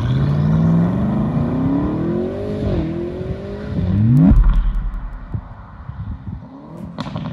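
Car engine revving up in pitch, dropping briefly about two and a half seconds in as if shifting, then rising steeply again and breaking off into a deep boom about four seconds in, as the sound of a logo intro.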